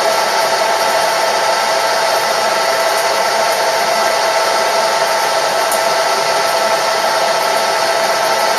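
Machine tool running steadily under its electric motor: a constant whine over even mechanical noise, with no change in speed and a few faint ticks.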